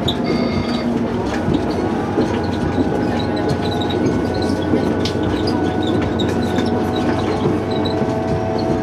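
Train running steadily along the line: a continuous rumble of wheels on rail under a steady hum, with scattered short high squeaks.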